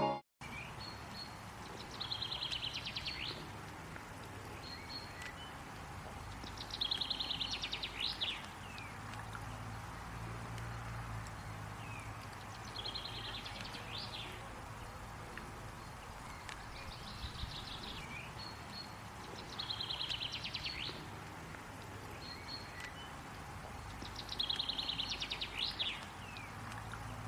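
A songbird singing a short, rapid trilled phrase that ends in a falling flourish, repeated five times about every five to six seconds, over faint open-air background noise.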